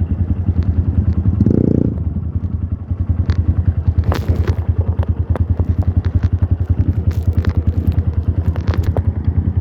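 Trail motorcycle engine running at low, steady revs with a fast, even pulsing beat. Scattered clicks and knocks sound over it.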